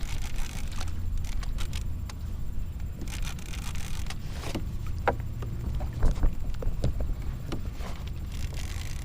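Steady low rumble of wind and water noise in an open kayak, with scattered small clicks and knocks of fishing gear being handled.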